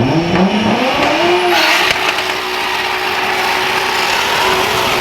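Volkswagen Golf's engine revved up, climbing for about a second and a half and then held at high revs, with a loud rushing hiss over it.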